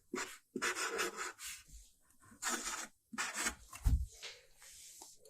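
Cat claws scratching cardboard: a series of rasping strokes, with a dull thump about four seconds in.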